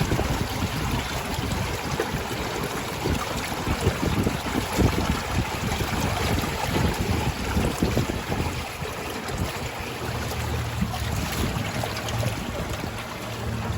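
Rushing floodwater with wind buffeting the microphone in uneven gusts. A low steady hum joins about ten seconds in.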